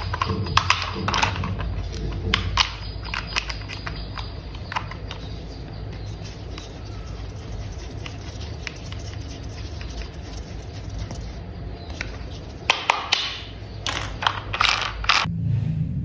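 Plastic toy parts clicking and knocking together, in a quick run of clicks through the first few seconds and again near the end, over a steady low hum.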